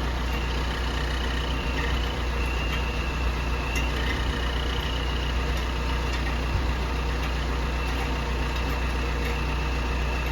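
Vehicle engine idling steadily, with a faint thin high tone that comes and goes over it, like an aftermarket turbo whistle fitted to the exhaust.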